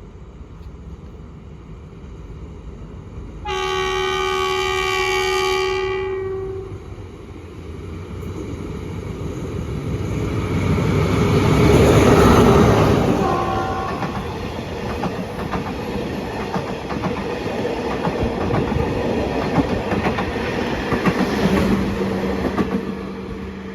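Alsthom diesel-electric locomotive sounding a multi-tone horn for about three seconds as it approaches, then passing at speed, loudest about halfway through, with a brief second horn note. The coaches follow, clattering over the rail joints until the train draws away near the end.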